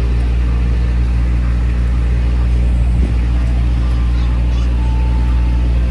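Ice cream truck's engine idling, a steady low hum that does not change.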